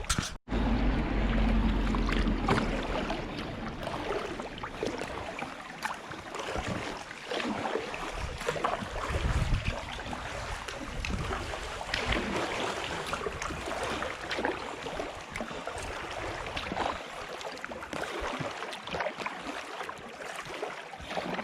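Water splashing and sloshing around a canoe on the river, with irregular splashes through most of the stretch. A low rumble runs for the first couple of seconds.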